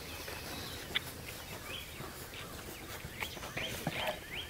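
Several small birds chirping: short, quick chirps that come more often towards the end, over a faint steady hiss.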